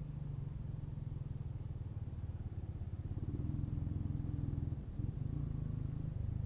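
Steady low rumble of wind and motorcycle engine picked up by an action camera's microphone under a home-made deadcat while riding in traffic. A faint engine tone comes up about three seconds in and drops away near five seconds.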